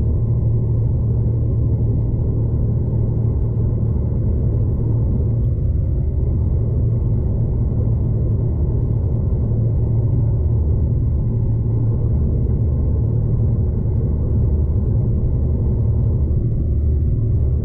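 Steady low rumble of a moving V/Line passenger train, heard from inside the carriage.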